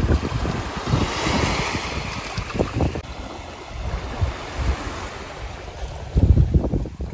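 Gusty wind rumbling on the microphone over the hiss of small surf washing on the beach, with the strongest gust about six seconds in.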